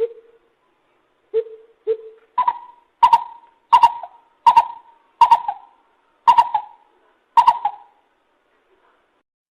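Lesser coucal calling: a series of hoots, three low ones and then seven higher ones at about twice the pitch, spaced roughly a second apart, the series stopping near the end.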